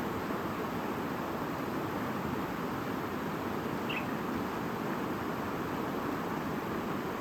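A babbling stream running steadily, with one short bird chirp about four seconds in.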